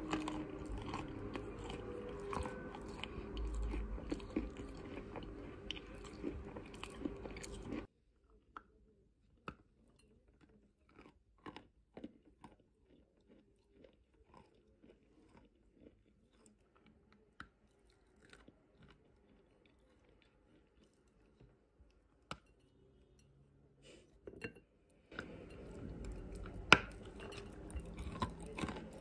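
Close-up biting and chewing of lumps of chalk: crisp crunches as pieces are bitten off and ground between the teeth. The crunches are dense for the first several seconds, sparse and quiet through the middle, and dense again near the end.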